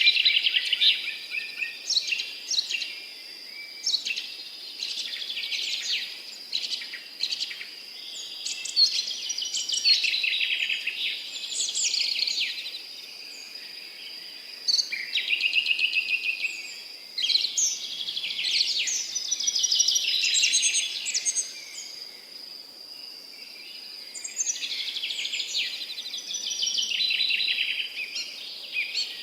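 Songbirds singing in a garden: rapid, trilling song phrases come every few seconds, with short lulls between them. A steady high-pitched hum sits underneath.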